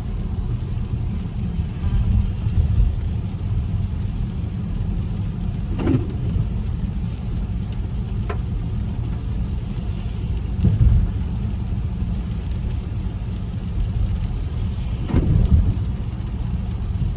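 Car driving, heard from inside the cabin: a steady low road and engine noise, with a few short, sharper sounds scattered through it.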